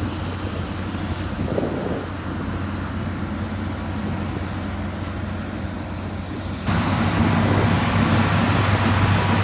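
Diesel engine of heavy construction machinery running steadily with a low hum. About two-thirds of the way in the sound steps suddenly louder and brighter.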